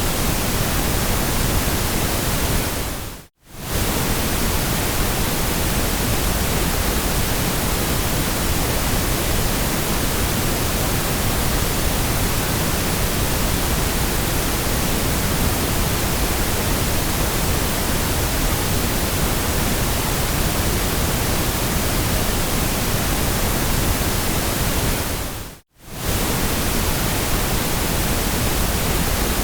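Steady, even white noise with a full hiss from deep lows to high treble. It dips briefly almost to silence twice, a few seconds in and again about four seconds before the end, then comes straight back.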